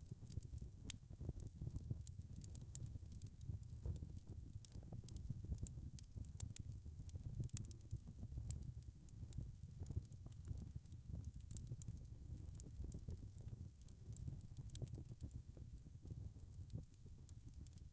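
Wood fire crackling: frequent small sharp pops and snaps over a steady low rumble of burning flames.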